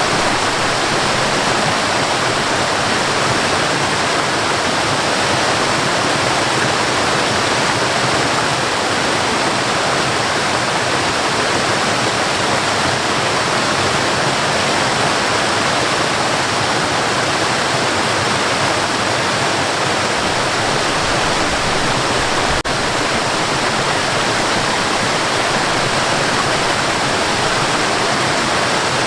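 Waterfall rushing, a steady, even wash of falling water, with a momentary dropout about two-thirds of the way in.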